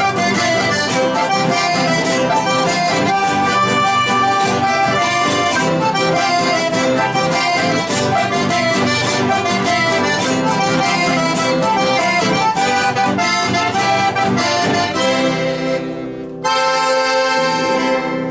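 Live accordion-led chamamé, the piece ending on one long held chord about sixteen seconds in.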